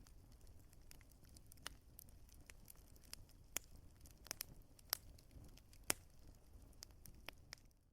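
Wood fire crackling, with irregular sharp pops and snaps over a low, steady rumble of the flames. The sound drops out briefly at the very end.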